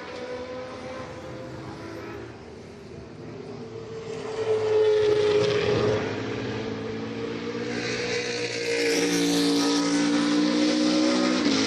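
GT3 race car engines running at high revs as cars pass at speed. The sound gets louder about five seconds in, then again from about eight seconds on.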